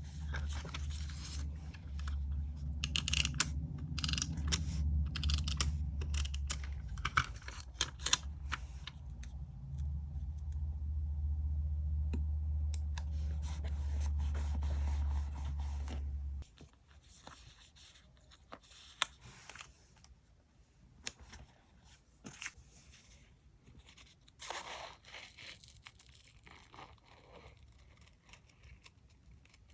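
Paper-craft handling for diary decorating: paper, stickers and tape being torn, cut and rustled, with small clicks and taps. Under it, a steady low hum that cuts off suddenly about sixteen seconds in.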